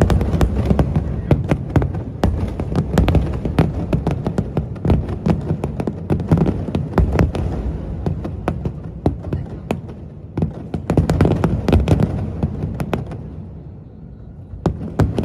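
Fireworks display: rapid, irregular bangs and crackles over a continuous low rumble, thinning to a lull near the end before the bangs resume.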